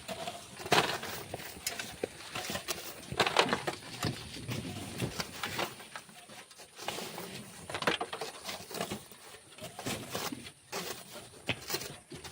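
Sand being dug and shovelled by hand: irregular scrapes and thuds every second or two.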